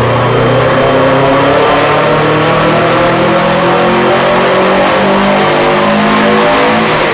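Subaru Impreza Turbo 2000's turbocharged 2.0-litre flat-four boxer engine running loud and hard on a chassis dynamometer, its tyres driving the dyno rollers, during a power run.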